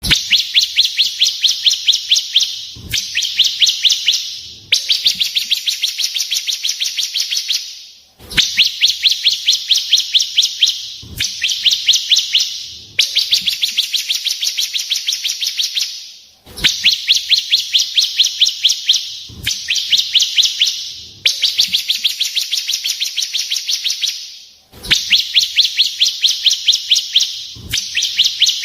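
Recorded songbird 'tembakan' call played as a masteran loop: fast, high-pitched trilled bursts of rapid repeated notes. Each burst lasts two to four seconds, with short breaks between them, about a dozen times over.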